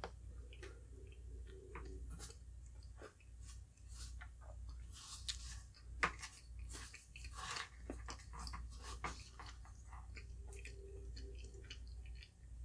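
Close-miked chewing of halo-halo, shaved ice and chewy jellies, with soft crunches and wet mouth sounds in many short clicks. A metal spoon scrapes and clinks in the glass bowl, with one sharp clink about six seconds in. A low steady hum runs underneath.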